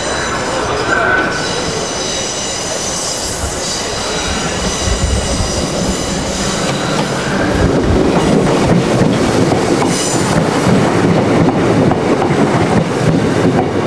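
Diesel train running on rails, with high-pitched wheel squeal over the first few seconds, then a louder rumble from about halfway through.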